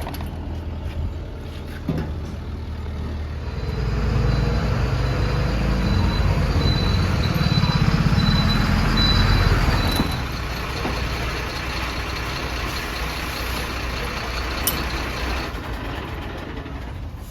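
JCB 3DX backhoe loader's diesel engine running, revving harder under load for several seconds with a faint high whine, then settling back to a steady run. A sharp knock about two seconds in.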